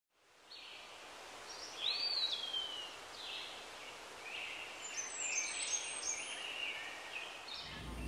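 Birds chirping and whistling in short high calls, with one longer whistle sliding down about two seconds in, over a faint steady outdoor hiss.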